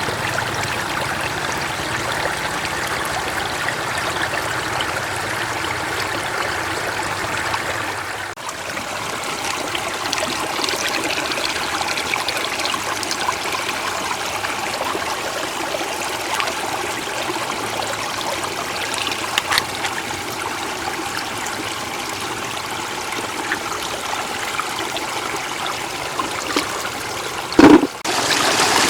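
Shallow floodwater running and trickling steadily, with a short loud thump near the end.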